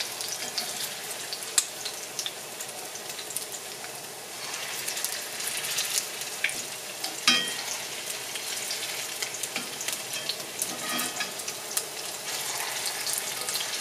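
Chicken meatballs shallow-frying in hot vegetable oil in a pan: a steady sizzle full of small crackling pops, a little louder from about four seconds in. A few sharper clicks stand out, one near the start and one about halfway through.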